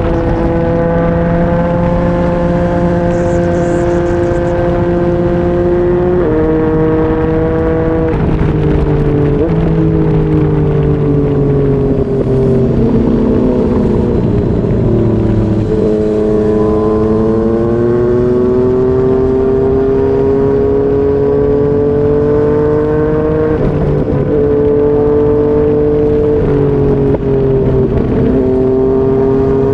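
Yamaha MT-09's inline three-cylinder engine through a Yoshimura R55 slip-on exhaust, running under way with wind rush; its pitch holds, steps down at several gear changes, sags for a few seconds and then climbs again.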